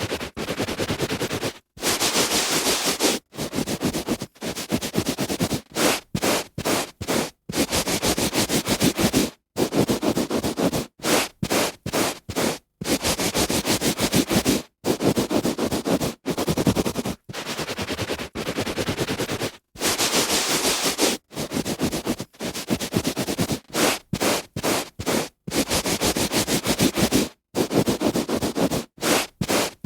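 A hand rubbing back and forth on carpet pile: repeated scratchy strokes of uneven length, from short quick rubs to strokes of about two seconds, with brief silent pauses between them.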